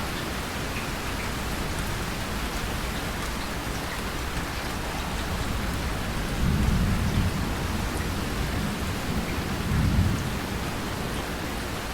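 Steady rain falling, with thunder rumbling low twice: once about six and a half seconds in and again near the ten-second mark, the second peak briefer.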